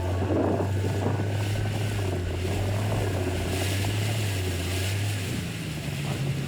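Motorboat engine running steadily with a low hum, its pitch stepping up about five seconds in as the throttle opens, over wind and water noise.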